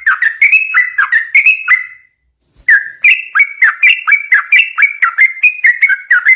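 Yellow-vented bulbul singing a fast, continuous run of short whistled notes, about three or four a second. The song breaks off briefly about two seconds in and then resumes.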